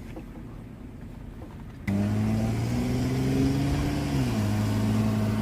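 Car engine running while driving, heard from inside the cabin: a faint low rumble, then from about two seconds in a louder steady engine note that rises a little in pitch and drops back about four seconds in.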